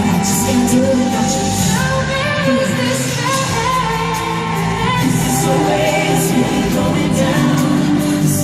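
Loud live pop music: an amplified band playing with a singing voice carrying a drawn-out, gliding melody over it.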